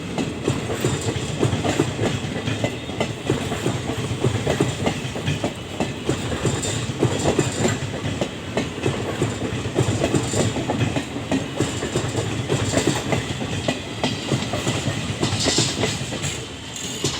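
Passenger coaches of an express train running past, wheels clattering steadily over the rail joints in a continuous clickety-clack with a low rumble underneath.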